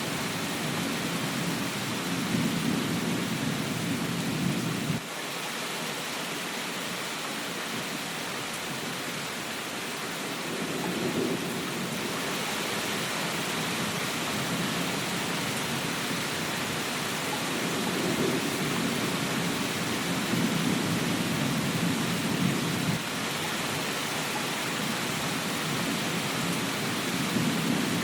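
Steady rain hiss with low thunder rumbling underneath, swelling and fading several times. One rumble cuts off suddenly about five seconds in.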